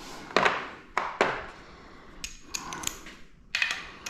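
Metal hand tools clinking against each other and the engine: a few sharp knocks, then a run of lighter ringing pings, as sockets are tried on the head bolts of a GM 2.4 EcoTec cylinder head.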